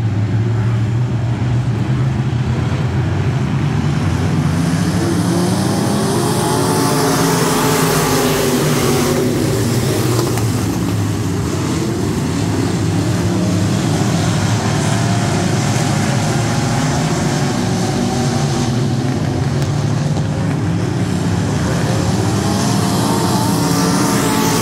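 Mini wedge race cars racing on a dirt oval: several engines running at once, their pitch rising and falling as the cars accelerate and lift around the track.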